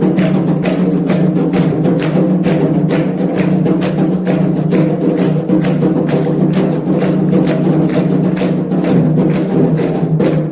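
Candomblé ritual percussion: atabaque hand drums with a struck bell or wood-block part, playing a fast, steady rhythm over a sustained low tone.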